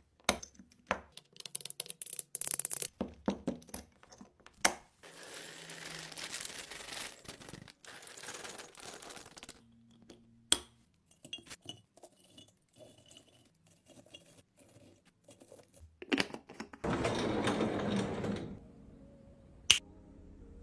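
Snacks and their packaging being handled and set into containers: a run of clicks, taps and clinks of plastic and glass, with two longer stretches of crinkling and rustling, the second about three quarters of the way in.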